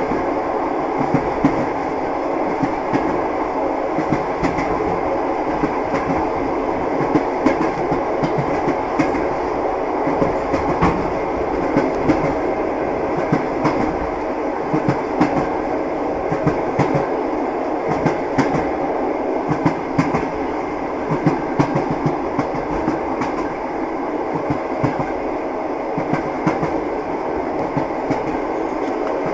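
Train running steadily: a continuous rumble of the carriage with the wheels clacking on the rails in frequent, uneven knocks.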